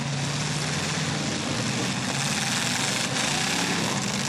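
Several demolition derby cars' engines running at once on the arena floor, a steady mixed engine drone that holds at an even level.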